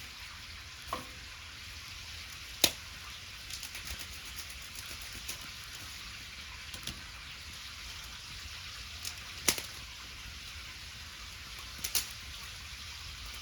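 Wood bonfire crackling: a steady hiss with sharp pops every few seconds, the loudest about two and a half and nine and a half seconds in.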